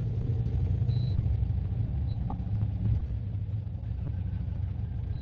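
Motorcycle engine running with a steady low rumble. Two short, high electronic beeps sound over it, one about a second in and one at the end.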